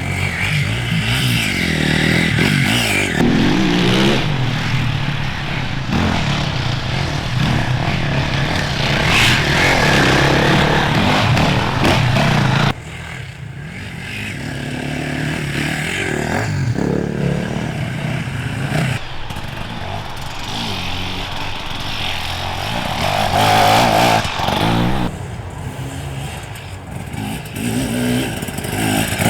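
Off-road enduro motorcycle engines revving as bikes ride through, the pitch rising and falling with the throttle. The sound drops abruptly partway through, then builds again as another bike approaches.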